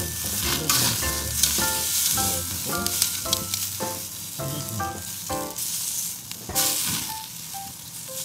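Ribeye steaks sizzling on a hot grill grate over charcoal and gas flame, the sizzle surging now and then, with light background music of short notes.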